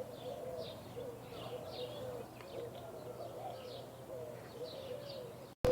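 Faint backyard birdsong: short high chirps about twice a second over a lower, wavering repeated call, with a steady low hum underneath. It cuts off suddenly near the end.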